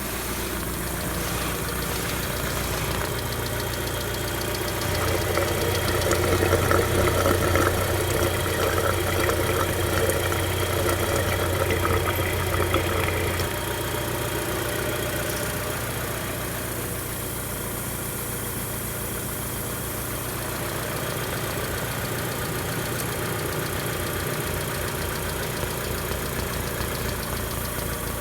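Mitsubishi Carisma's 1.8-litre 4G93 GDI four-cylinder petrol engine running, mostly at a steady idle. About five seconds in it runs louder for roughly eight seconds, then settles back to idle.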